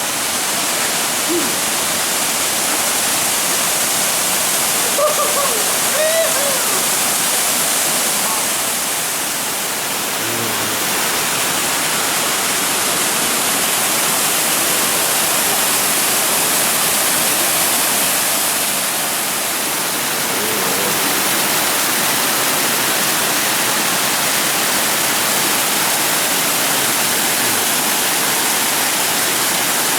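Laurel Fork Falls cascading: a steady, loud rush of falling water.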